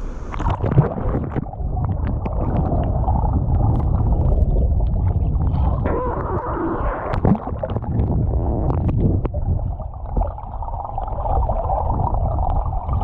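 Muffled underwater rumbling and gurgling of churning water in a waterfall pool, picked up by a submerged action camera. The high end drops out about a second in, with scattered small clicks over the low rumble.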